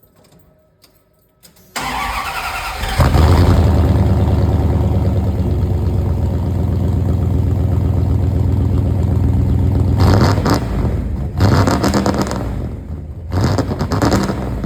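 A 1993 Dodge D150 pickup's engine is cold-started at 19 degrees. The starter cranks for about a second, and the engine catches quickly and runs steadily and loud. There are a few short revs in the last few seconds.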